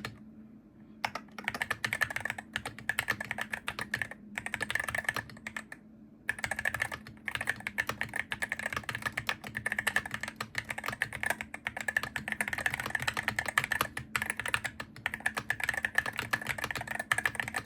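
Continuous fast typing on a Hero68HE gaming keyboard: dense runs of key clicks broken by short pauses, about a second in and again around four and six seconds in.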